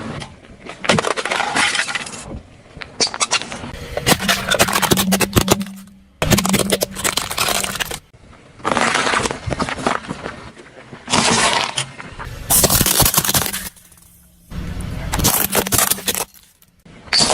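Objects crushed under a car's tyres: a series of crunching, crackling bursts, each a second or two long, with short lulls between them.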